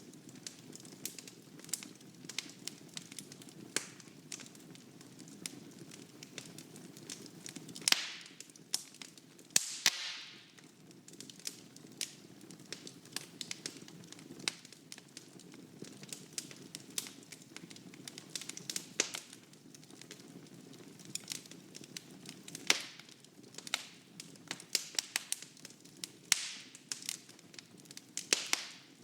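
Wood fire burning in a fireplace: a steady low rush of flame with constant sharp crackles and occasional louder pops, and a brief hiss that falls in pitch about ten seconds in.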